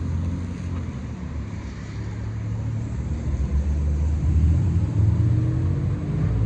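Car engine running, a steady low rumble that grows louder about three seconds in.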